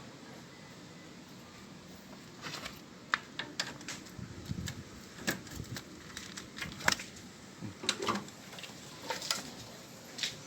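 Irregular light clicks and knocks of hard objects being handled, starting a few seconds in and coming in scattered clusters, over a faint steady background hum.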